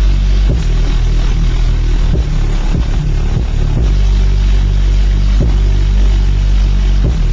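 Two 15-inch car subwoofers playing bass-heavy hip-hop at very high volume, with no other speakers connected. The deep bass overloads the microphone into a distorted, rumbling roar, with the bass line shifting every second or so.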